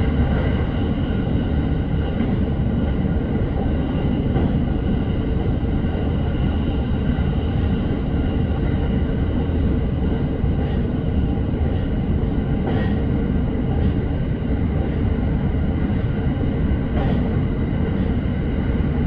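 Electric commuter train running at speed between stations, heard from inside a passenger car: a steady rolling rumble under a faint even whine, with a few light clicks from the wheels over the track.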